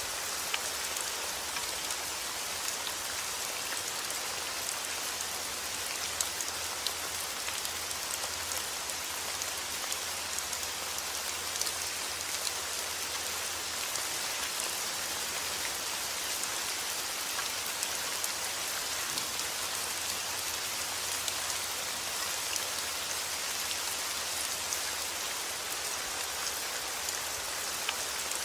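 Steady heavy rain falling outdoors, a dense even hiss with scattered sharp drop impacts on surfaces.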